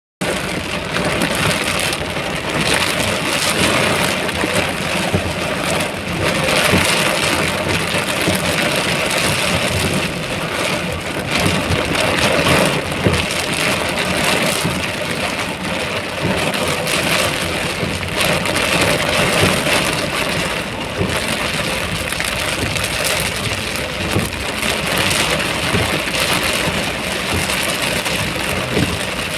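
Heavy rain falling: a steady hiss with dense patter of drops.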